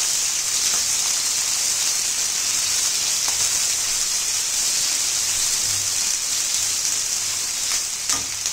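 Sliced onions and curry leaves sizzling steadily in hot oil in a steel kadhai as they are stirred with a silicone spatula. A light knock comes near the end.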